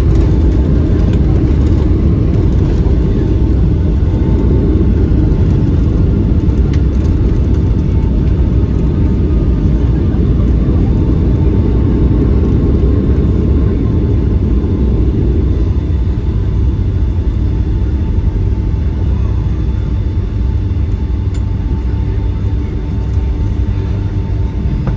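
Loud, steady low rumble inside the cabin of a Boeing 757-200 during the landing, the noise of the engines and the aircraft rushing along, with a few faint steady engine tones above it. The rumble eases off over the last several seconds as the jet slows.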